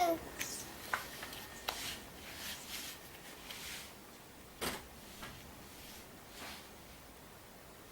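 Scattered light clicks and taps of something being handled, with one louder knock about four and a half seconds in.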